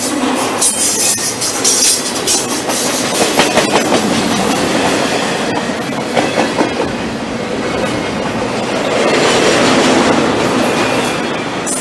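Double-stack intermodal freight train of container-laden well cars passing close by: a steady rush of steel wheels on rail, broken by irregular clicks as the wheels cross rail joints, growing a little louder about nine seconds in.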